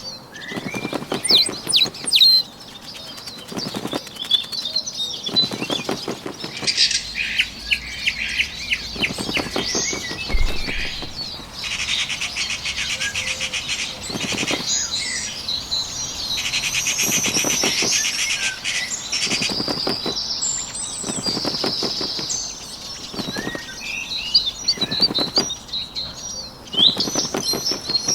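Bird sound effects: a small bird's wings fluttering in repeated short bursts, with high chirps and twittering throughout and two longer rapid trills in the middle.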